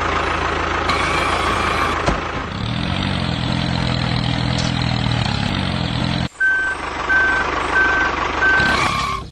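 A vehicle engine running with a steady noisy rumble and a low hum through the middle. After a sudden cut about two-thirds in, a reversing alarm beeps four times at an even pace over the engine.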